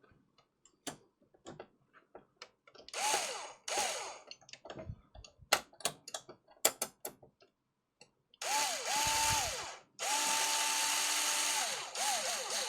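Small handheld electric screwdriver running in short bursts, its motor whine rising as it spins up and falling as it stops, working the screws of a PlayStation 5 console; one longer steady run near the end. Small clicks and taps of screws and parts being handled in between.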